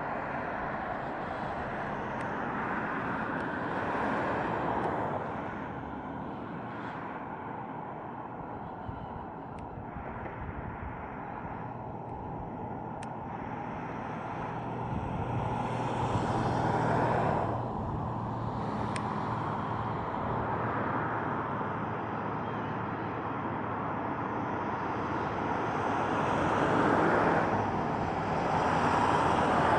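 Continuous rushing roar of a waterfall swollen by heavy rain, swelling louder and easing off several times.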